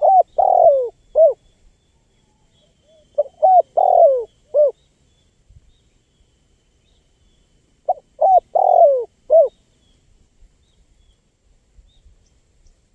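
Spotted dove (tekukur) cooing: three phrases of four to five short notes each, most notes sliding down in pitch, the first near the start, the next about three seconds in and the last about eight seconds in.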